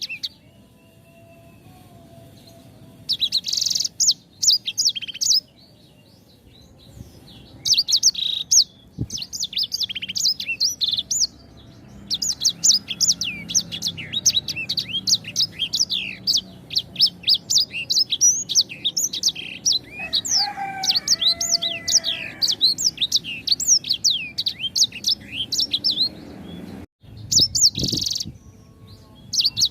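A songbird singing long runs of fast, high, sharp chirps and sweeping notes, in several bursts with short pauses between them.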